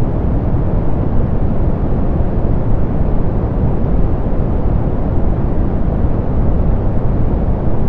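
Steady synthetic pink noise, softened so that most of its energy sits low, giving a deep, even hiss with no changes or events.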